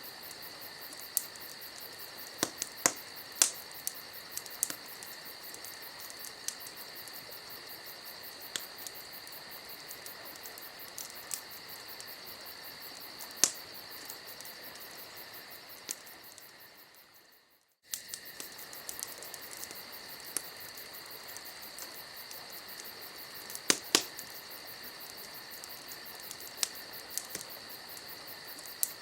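Campfire crackling: irregular sharp pops and snaps over a steady hiss, with a constant high trill behind it. About two-thirds of the way through, the sound fades out to near silence and then cuts back in abruptly, as the recording loops.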